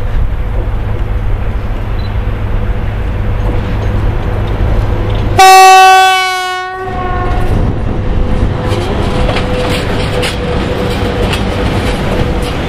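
VL80T electric locomotive hauling a freight train: a steady low rumble as it approaches, then about five seconds in one loud horn blast of about a second and a half that dips in pitch as it ends. After that the train rolls past close by, its wheels clicking over the rail joints.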